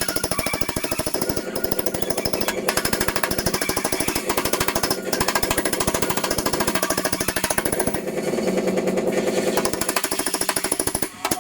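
A power tool hammering rapidly and evenly on car-body sheet metal, like a pneumatic air hammer or reciprocating body tool, with a brief break just before the end.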